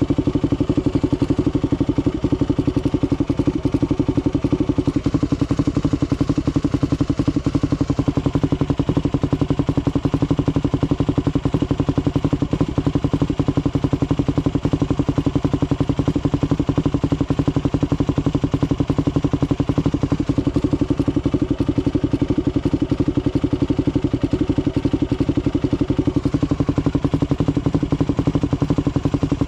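Dirt bike engine running steadily and close, its firing pulses fast and even with little change in pitch.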